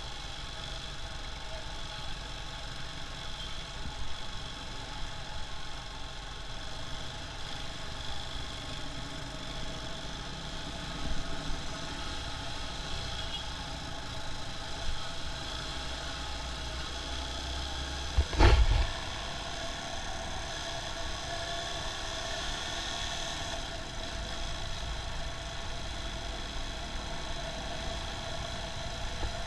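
Motorcycle engine running steadily at low revs while riding in traffic. About two-thirds of the way through there is one brief loud thump.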